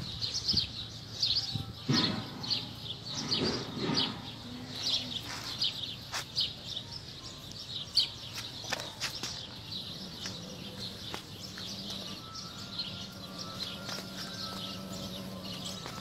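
Birds chirping, many short high chirps in quick succession, with a faint steady hum underneath in the latter half.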